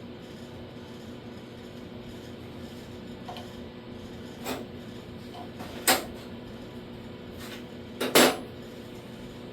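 Sheet-metal bodywork: a few sharp metallic clinks and clanks of tools and panel clamps against steel, the loudest two close together near the end, over a steady low hum.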